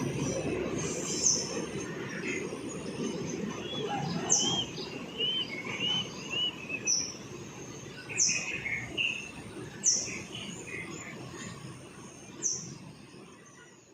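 Small birds chirping in short repeated calls over a low train rumble that slowly fades out, as a train moves away.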